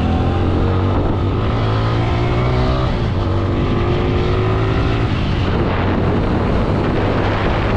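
Motorcycle engine running while riding, its pitch rising and falling a little as the revs change, over a steady rush of noise.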